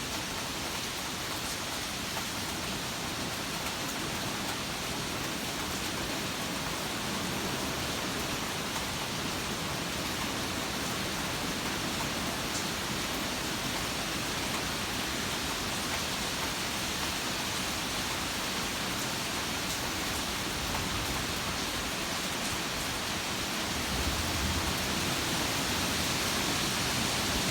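Steady rain falling during a thunderstorm, an even hiss, growing a little louder with a low rumble about 24 seconds in.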